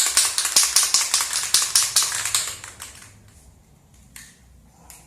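Aerosol can of chain wax being shaken hard, its mixing ball rattling in a fast, even rhythm of about five or six strokes a second, dying away about three seconds in.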